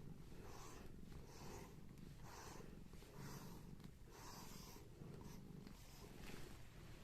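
Domestic cat purring, faint and steady, swelling and fading with each breath a bit under once a second.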